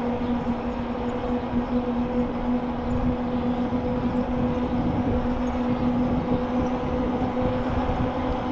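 A bicycle rolling along: a steady rumble of the tyres on the path, with a constant low hum.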